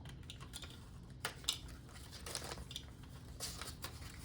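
Faint rustling and crinkling of paper bills being handled and tucked into a cash envelope, with a few short soft clicks.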